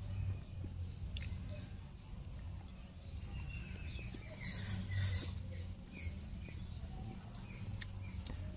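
Small birds chirping and twittering, many short quick high calls in a row, over a low steady hum.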